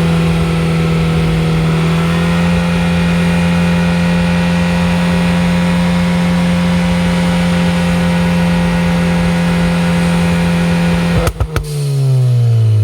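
Car engine and exhaust, on a Stratified 91-octane pops-and-crackles tune, held at a steady pitch. About eleven seconds in a few sharp pops and crackles come as the throttle lifts, then the revs start to fall.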